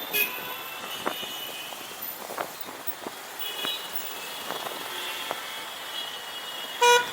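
Steady city traffic and road noise heard while riding on a motorcycle, with scattered clicks and a short, loud vehicle horn beep near the end.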